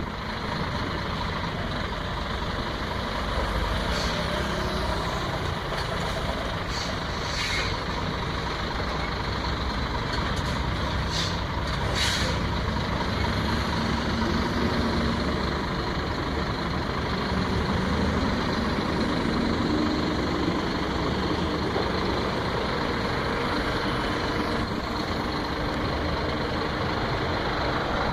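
Scania truck's diesel engine running at low speed while it manoeuvres to park, with several short hisses of air from the brakes.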